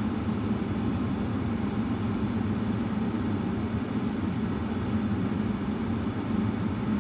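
Car engine idling steadily, heard from inside the stationary car's cabin.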